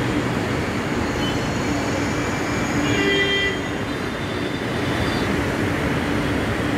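Metro train running through an elevated station, a steady loud running noise with a low hum, and a brief high-pitched squeal about three seconds in.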